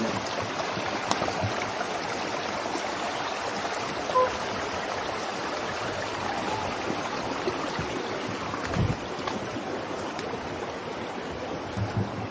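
Small waterfall running steadily: an even rushing and splashing of falling water.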